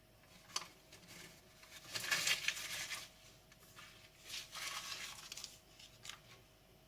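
Carbon steel knife slicing through paper in two long strokes, with a few small clicks between them: a sharpness test of the freshly sharpened edge.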